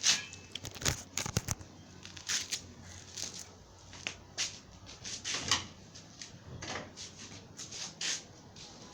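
Irregular clinks, knocks and scrapes of metal pieces being handled, with a few brief ringing strikes and no steady machine running.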